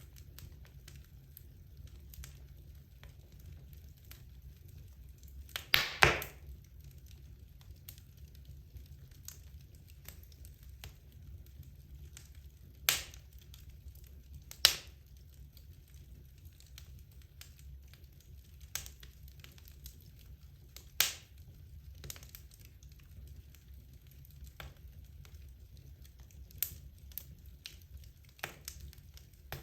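Wood logs burning in a fireplace, crackling with irregular sharp pops, the loudest near 6, 13, 15 and 21 seconds in, over a steady low rumble.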